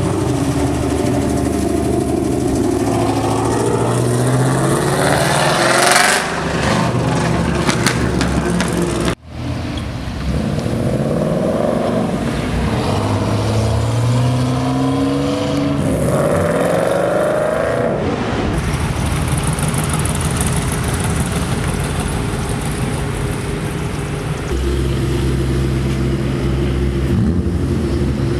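Car engines running and accelerating away one after another, several revs rising in pitch as cars pull out, over a steady low exhaust rumble from idling engines. There is a sudden brief dropout about nine seconds in.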